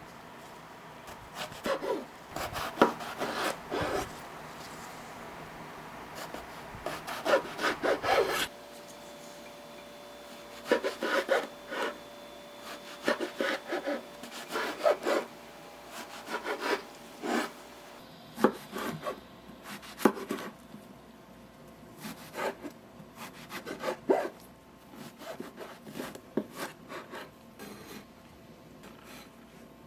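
A kitchen knife cutting eggplant on a wooden cutting board, in runs of quick strokes with short pauses between them.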